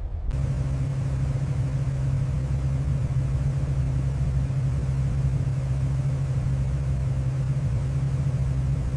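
A steady low machine drone with a constant hum and an even hiss over it, coming in suddenly just after the start and holding level throughout.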